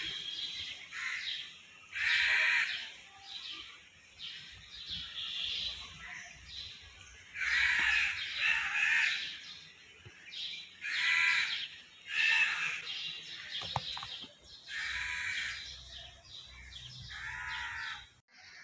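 A bird calling again and again outdoors, a dozen or more short calls, each under a second.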